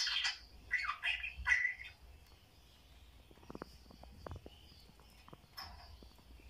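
Budgerigars calling: a burst of harsh chirps and squawks over the first two seconds, then a few faint ticks and one short chirp near the end.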